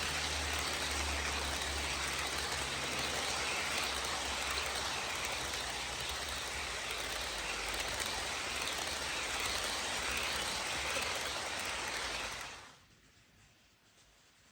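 HO scale model passenger train running past on the layout: a steady rolling hiss of the wheels on the rails over a low motor hum. It cuts off abruptly about twelve and a half seconds in.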